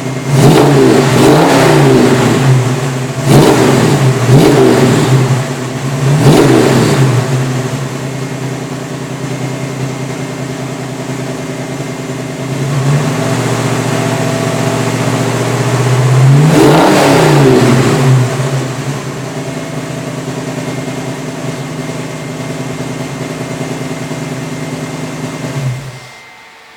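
1966 Ford Mustang's 302 V8 through a Magnaflow exhaust, blipped about five times in quick succession, then idling, with one more rev about two-thirds of the way through. The engine is switched off just before the end.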